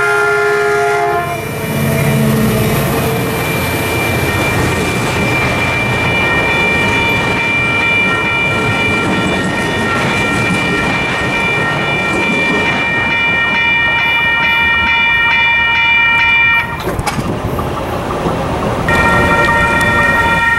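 Caltrain diesel commuter train at a grade crossing: its horn sounds a chord that ends about a second in. Then comes the steady rumble and wheel clatter of the train passing, under the ringing of the crossing bells. The sound drops briefly near the end, and crossing bells start again.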